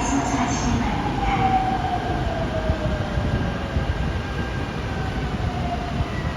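Seoul Subway Line 5 electric train running in the underground station: a steady low rumble with a motor whine that falls in pitch over about four seconds.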